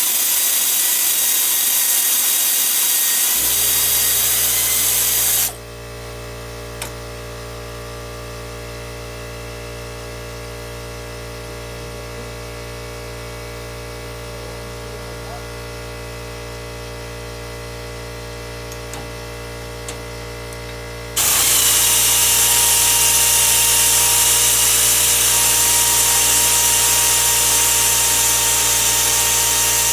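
Two long bursts of loud hissing spray from a pressurised air or water nozzle, the first stopping about five seconds in and the second starting about two-thirds of the way through. Under them a steady motor hum starts a few seconds in and keeps running.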